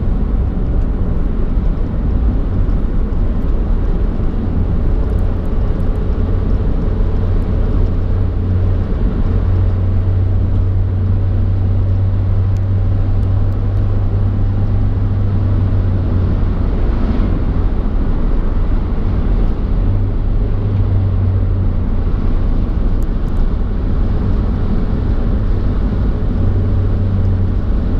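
A car driving along the road: a steady, loud, low rumble of road and wind noise.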